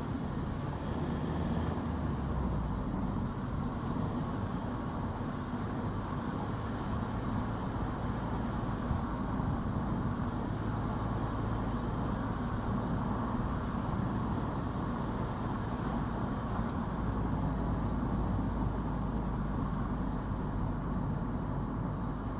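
A car driving along a road: steady engine rumble and tyre noise on the road surface.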